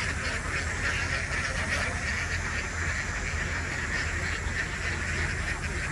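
A large flock of domestic ducks quacking all at once, a dense, steady chorus of overlapping calls.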